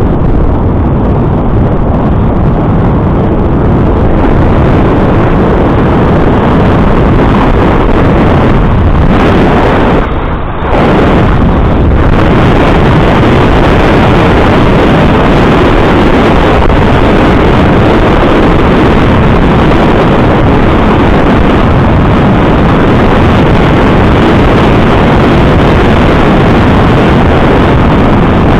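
Loud, steady wind rushing over the microphone of a camera riding along on a moving bicycle, with a brief dip about ten seconds in.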